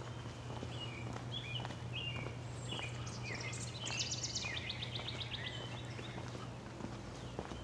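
Several wild birds chirping and singing in woodland, with short repeated calls and a rapid trill around the middle. A steady low hum runs underneath.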